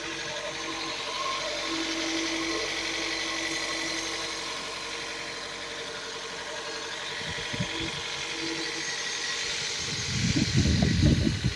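Toyota MR2 Spyder's 1.8-litre inline-four engine idling steadily as it warms up after a cold start. In about the last second and a half, a burst of loud, irregular low thumps rises over the idle.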